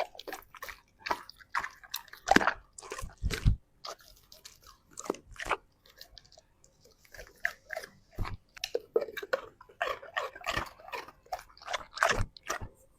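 A large dog chewing and crunching food with irregular, sharp bites, thinning to a lull of a couple of seconds in the middle before the chewing picks up again.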